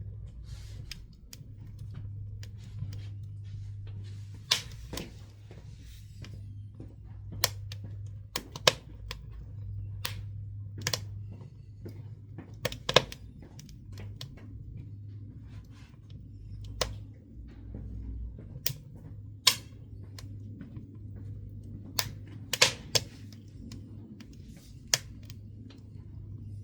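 Pine and woodworking offcuts burning in a wood stove, crackling with irregular sharp pops, a few of them loud, over a steady low hum.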